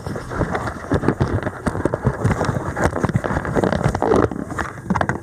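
Kayak working down a shallow creek: a dense, irregular run of small knocks, scrapes and splashes from the hull and paddle.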